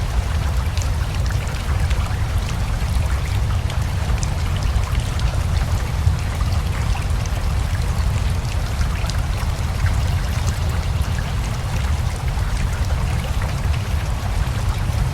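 Steady rain mixed with a running river: a low, even rush of flowing water, with individual raindrops heard as scattered sharp ticks over it.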